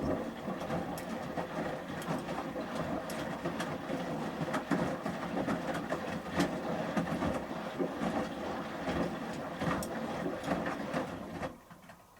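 Front-loading washing machine drum turning a wet shirt load during the heating stage of a 30 °C wash, with water sloshing and the clothes knocking irregularly as they tumble. It stops abruptly near the end as the drum pauses.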